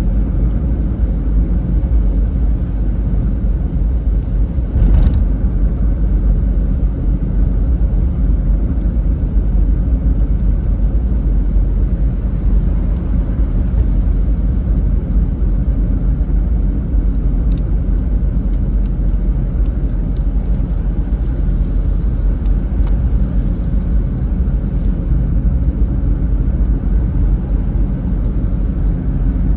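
Car driving on a wet road in the rain: a steady low rumble of tyres and engine, with one short knock about five seconds in.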